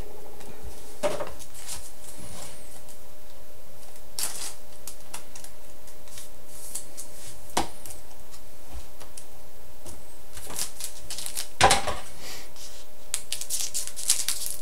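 Trading cards and card packs being handled: scattered rustles, taps and clicks as cards are shuffled through and the next pack is readied, with a faint steady hum underneath.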